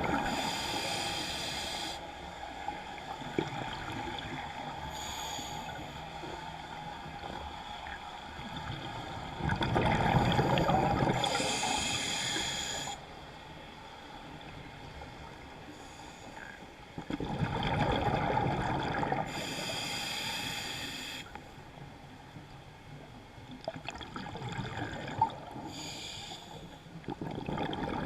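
A scuba diver breathing through a regulator underwater: hissing inhalations alternating with bubbling exhalations, several slow breaths in a row.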